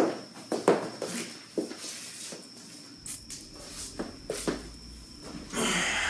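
Footsteps, a sharp step about every half second, as someone walks across a room. Near the end a longer rustle as he drops onto a fabric sofa.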